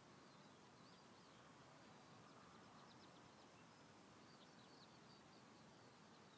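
Near silence: faint birdsong, a scatter of short chirps and quick trills, over a low steady hiss.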